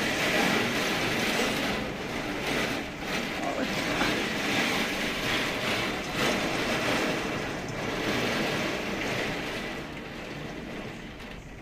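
Heavy wind-driven rain and gusting wind of a severe thunderstorm: a steady rushing noise that swells and eases, dropping off a little near the end.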